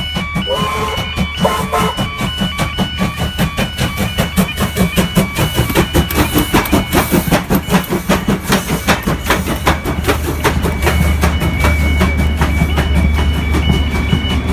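A heritage train rolls over the level crossing, its wheels clicking rhythmically over the rail joints. The crossing alarm keeps sounding its repeating alternating tones. A low engine drone grows louder in the last few seconds as the diesel locomotive at the rear comes past.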